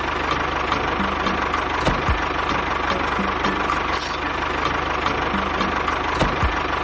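Small motor of a miniature DIY tractor model running steadily, with a faint regular ticking over its whir.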